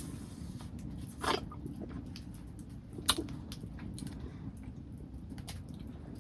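Steady low background rumble, with two short sharp clicks, one a little over a second in and one about three seconds in.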